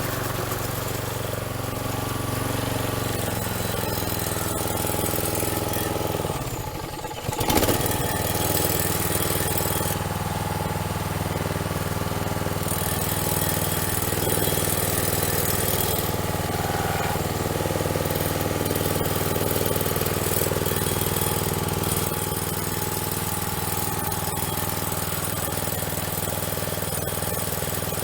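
Single-cylinder flathead Briggs & Stratton engine on a wheeled string trimmer running steadily after a carburettor clean, a new spark plug and new air filters. About six seconds in it briefly dips, then picks straight back up. The owner judges the running as sounding good.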